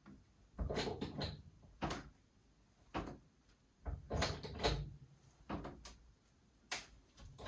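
Hydraulic bottle jack being pumped by hand under a sagging house beam: a series of short knocks and creaks about once a second, one per handle stroke.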